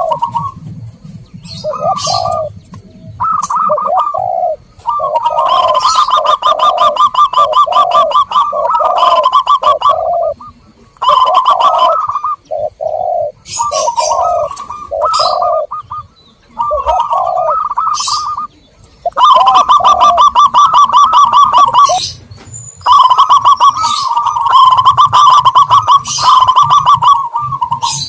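Zebra doves and spotted doves cooing: repeated low, rounded coo phrases mixed with a faster, higher trilled cooing, in bursts of a few seconds broken by short pauses.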